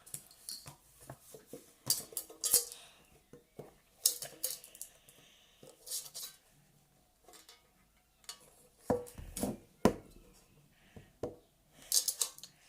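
A slime container being handled while someone tries to get a slime that is very hard to remove out of it: irregular clicks, scrapes and knocks, with a few louder knocks about nine to ten seconds in.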